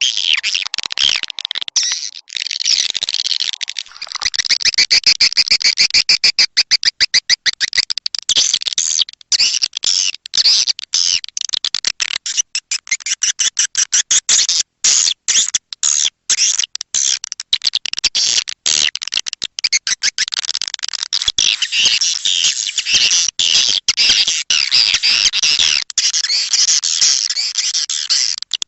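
Swiftlet call recording: dense, rapid high-pitched chirping and twittering of swiftlets, broken by many short gaps, as played to lure birds into a swiftlet house.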